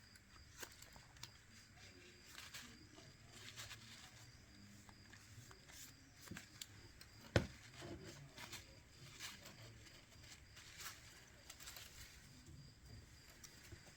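Faint, scattered clicks and taps of small tools and phone parts being handled during a smartphone screen repair, with one sharper knock about seven seconds in.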